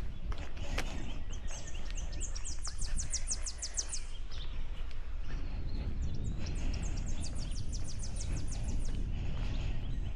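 A songbird singing two phrases, each a fast, even run of high repeated notes lasting about two seconds, over a steady low rumble of wind.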